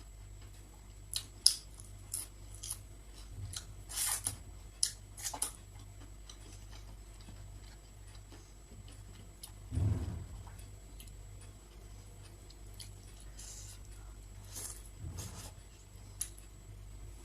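Close-miked eating: a scatter of sharp, crisp clicks and crunches over the first few seconds, then a low thud about ten seconds in and another near fifteen seconds, with a few more clicks toward the end.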